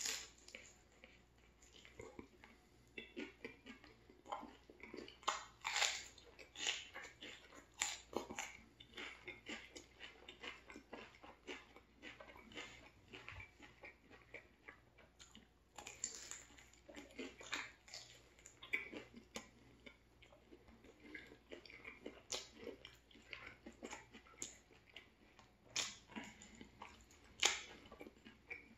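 Close-miked mouth sounds of a person biting into and chewing a turkey sandwich on a crusty roll: a bite at the start, then irregular wet chewing with small crunches and smacks throughout.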